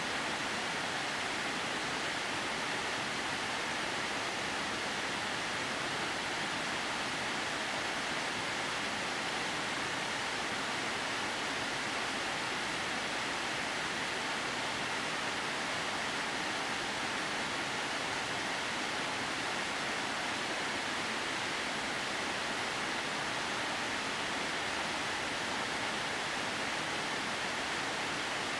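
Miroku Falls, a waterfall whose water runs in thin threads down a rock face, making a steady, even rush of falling water.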